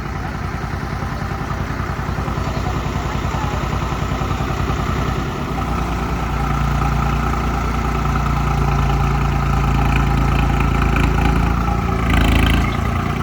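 Tractor diesel engine running with an even firing beat. About five seconds in, its low rumble grows stronger and louder, and it holds there. A brief louder burst comes near the end.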